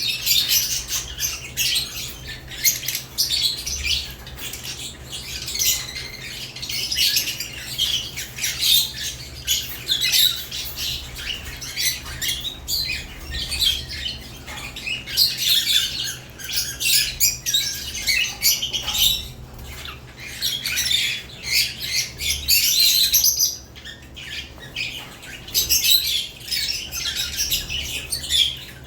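Several caged lovebirds chattering: a dense, continuous mix of shrill chirps and squawks, with a brief lull about two-thirds of the way through.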